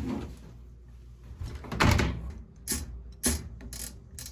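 A few sharp clicks and knocks of plastic parts being handled, the loudest about two seconds in: wire connectors and panel parts of a washing machine's control board being worked on.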